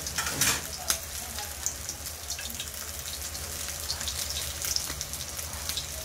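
Tofu-and-chicken balls frying in hot oil in a stainless steel pan: a steady sizzle with scattered crackles and pops, and a louder crackle and a sharp pop within the first second.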